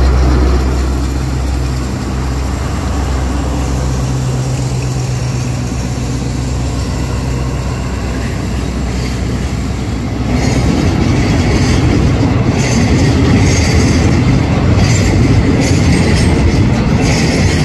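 Diesel locomotive of a freight train of oil tank wagons running past close by with a steady low engine drone. From about ten seconds in, the sound turns to the rougher noise of the loaded tank wagons rolling by, wheels clattering and ringing on the rails.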